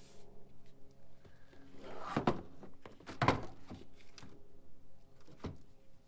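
A few dull thuds and knocks: two heavier ones about two and three seconds in and a sharper one near the end, over a faint steady hum.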